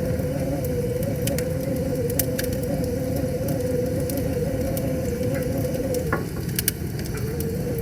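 Wood fire crackling, with scattered sharp pops, over a steady rush of river water. A steady wavering hum runs underneath and drops out about six seconds in.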